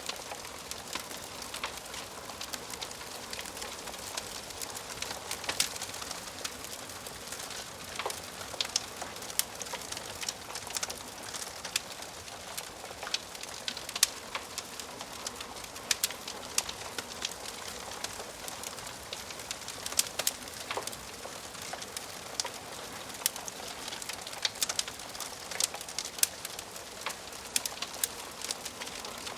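Wood fire crackling in a fireplace: a steady hiss with many sharp pops and snaps at irregular intervals.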